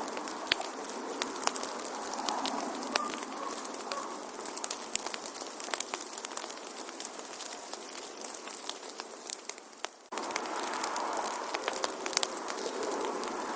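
Wood fire crackling: many irregular pops and snaps over a steady hiss. About ten seconds in the sound fades briefly, then cuts back in abruptly.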